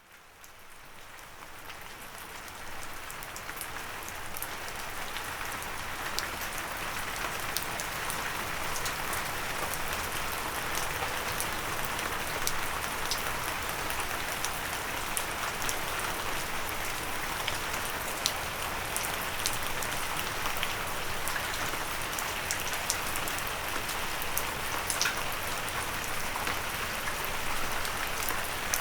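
Steady rain hitting a windowsill, a continuous hiss with many individual drops ticking sharply. It fades in from silence over the first few seconds.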